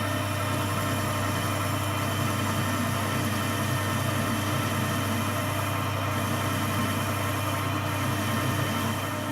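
Metalworking lathe running steadily while turning a steel bar blank: an even motor hum with several fixed tones.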